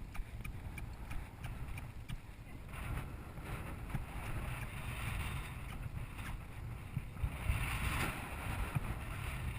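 Wind rumbling on the microphone, with faint irregular knocks and a short hiss near the end.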